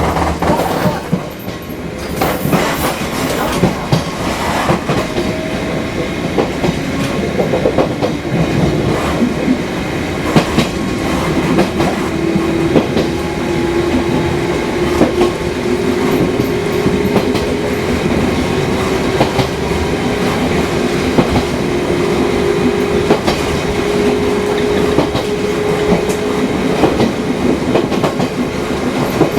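Fukui Railway 200-series electric railcar running along the line, with clicks of the wheels over rail joints and a motor tone that rises slowly in pitch as it picks up speed.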